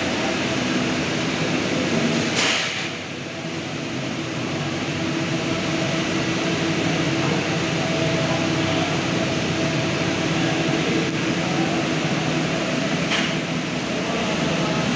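Halton kitchen exhaust hood with its extraction fan running, a steady rush of air with a low hum. Two short, sharp noises break in, about two and a half seconds in and near the end.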